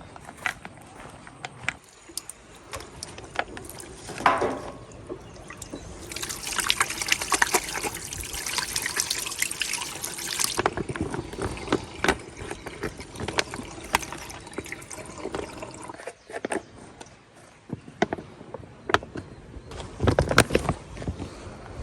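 Liquid pouring for about four seconds, stopping abruptly, amid scattered clicks and knocks of handling.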